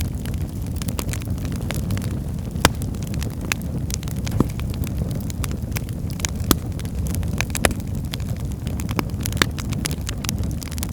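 Wood fire burning in a fireplace: a steady low rumble of flames with constant small crackles and a few louder sharp pops of burning firewood.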